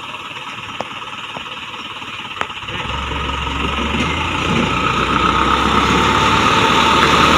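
Heavy construction machine's diesel engine running, coming in about three seconds in and growing steadily louder, with a high steady whine joining it later. A few light clicks come before the engine rises.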